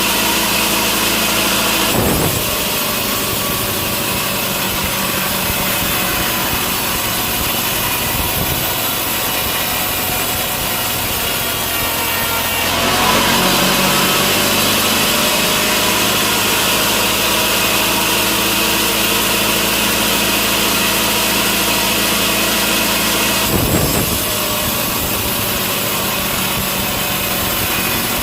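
Sawmill saw running steadily and cutting through a large log, with the cut changing about two seconds in, getting louder and harsher around the middle, and shifting again near the end.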